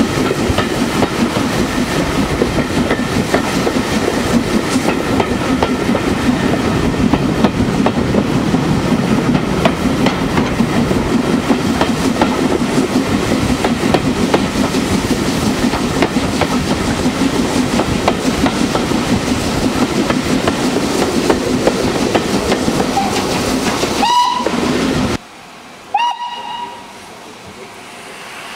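Steam train running close by: a steady, loud rumble of wheels and carriages on the track. Near the end a steam whistle sounds, the rumble cuts off abruptly, and a second, shorter and fainter whistle follows over a much quieter background.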